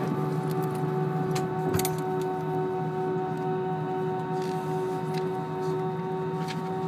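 Airbus A319 cabin sound on the ground: the jet engines running at idle with a steady whine of several held tones over a low hum, with scattered light clicks and rattles from the cabin fittings.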